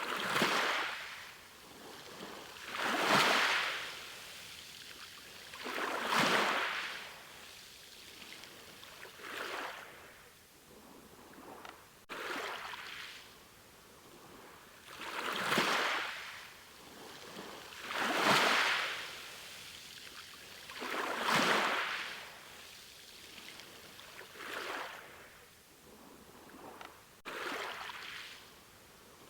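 Ocean waves washing in on a shore, one surge of surf about every three seconds, each swelling up and fading back. The sound jumps abruptly twice, at what look like splice points in the recording.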